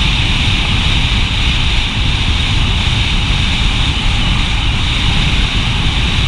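Wind rushing and buffeting over the microphone of a moving 125cc motorcycle, with road and engine noise under it. The noise is loud and steady, with a low fluttering rumble.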